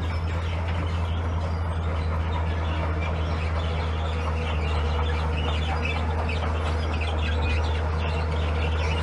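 Heavy diesel earthmoving machine engine running steadily with a low, even drone, with short high chirps or squeaks scattered over it.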